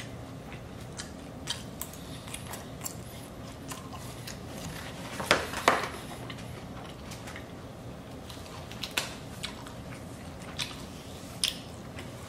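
Close-up sounds of someone eating orange chicken, sesame chicken and fried rice: chewing and biting, with scattered short clicks and smacks, the loudest a quick pair about halfway through.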